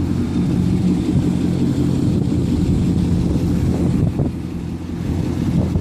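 2006 Chevrolet Corvette V8 idling steadily through a straight-piped 3.5-inch slip-on exhaust, a deep, even exhaust note.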